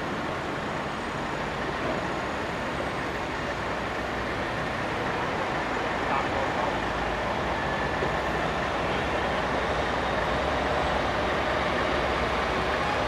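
Steady road traffic noise with vehicle engines running, growing a little louder and deeper about halfway through.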